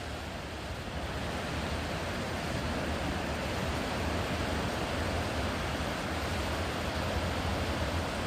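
Sea surf washing steadily onto a wide sandy beach: an unbroken hiss of waves over a low rumble.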